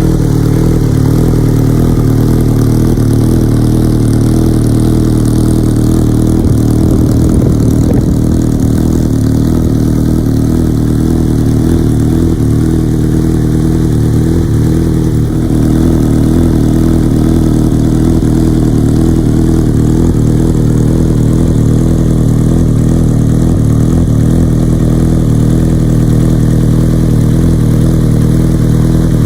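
Yamaha XJR1300's air-cooled inline-four engine idling steadily through an Asahina full exhaust system.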